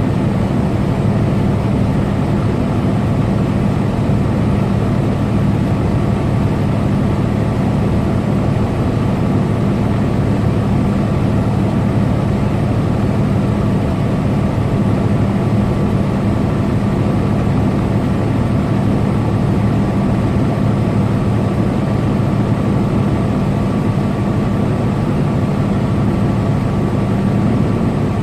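Semi truck cruising steadily on the highway: its diesel engine holds an even, unchanging drone over road noise.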